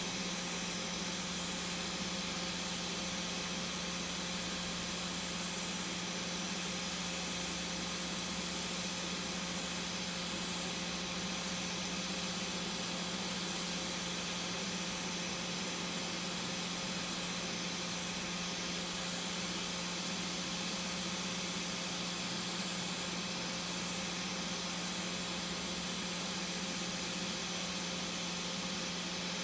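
Hot air rework station blowing steadily with a low hum, heating the CPU on an iPhone X logic board until it is loose enough to lift.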